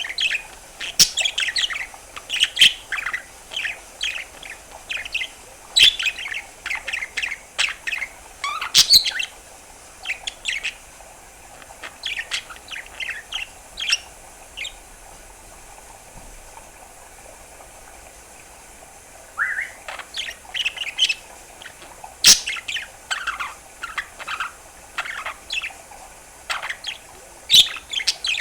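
Budgerigar chattering and warbling: rapid strings of chirps, clicks and short whistles. It goes quiet for about five seconds midway, then starts up again with sharp chirps.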